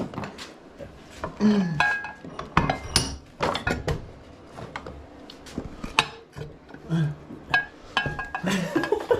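Metal hand tools clinking and knocking against the metal parts of a motorcycle engine's crankcase as it is being dismantled: irregular sharp metallic clicks, some ringing briefly.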